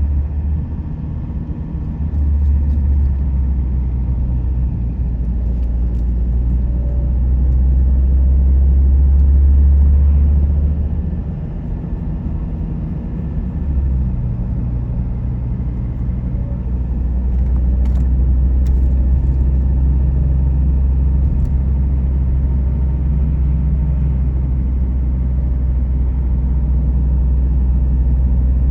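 Car driving along a road: a steady low rumble of engine and tyres that eases off about eleven seconds in, then builds again and holds.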